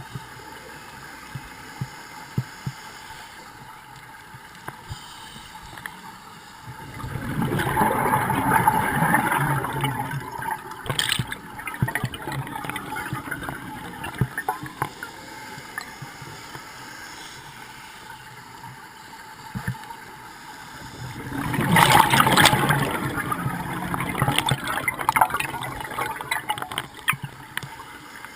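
Scuba diver's exhaled bubbles gurgling out of the regulator underwater, twice, each burst lasting about three seconds, at a slow breathing rhythm.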